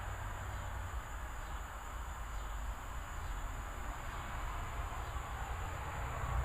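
Outdoor evening ambience during a nearby thunderstorm: a steady low rumble under an even hiss, with a faint, constant high chirring of insects.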